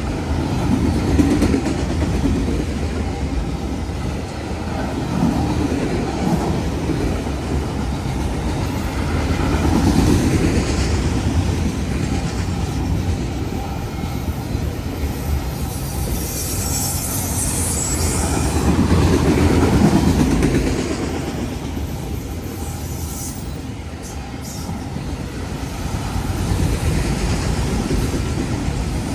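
Freight train rolling past, its wheels running over the rails in a steady rumble, with a brief high-pitched wheel squeal about two-thirds of the way through.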